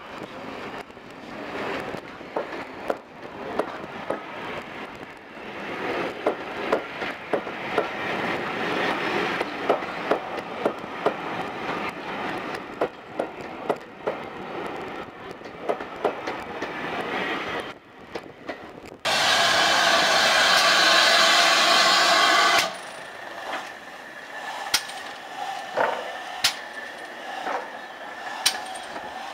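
Steam-hauled train coaches rolling past on the line, their wheels clicking over the rail joints, getting louder about five seconds in. After a break, a loud steady hiss of steam from a locomotive lasts about four seconds and cuts off sharply, followed by scattered clicks and knocks.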